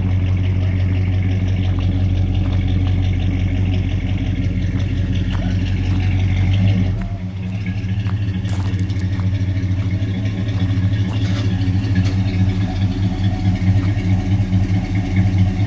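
1965 Chevrolet El Camino's engine running steadily at low speed. About seven seconds in its note drops and changes, and a few light clicks follow.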